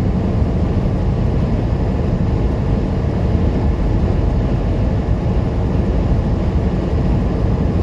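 Steady low drone of a semi-truck's engine and road noise, heard from inside the cab while driving.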